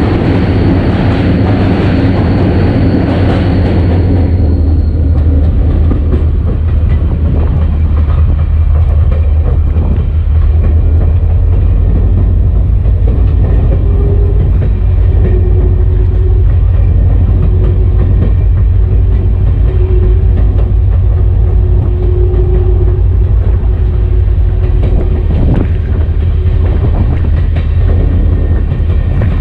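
EMD SD40-2 diesel-electric locomotive under way, heard from its short nose: its two-stroke V16 diesel engine makes a steady, deep rumble, with wheel-on-rail noise over it. A louder rushing noise fills the first few seconds and drops away about four seconds in.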